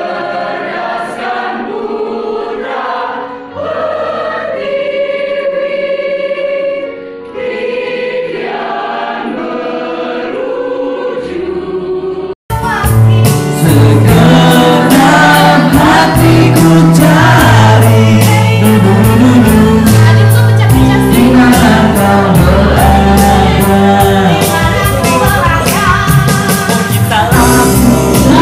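Mixed student choir singing in parts without accompaniment. About twelve seconds in, after a brief dropout, a much louder recording takes over: voices singing over an electronic keyboard playing held bass notes with a steady beat.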